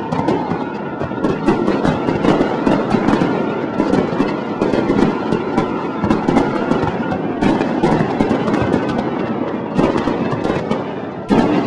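Fireworks display: a dense, continuous barrage of rapid bangs and crackles with no letup, with music playing underneath.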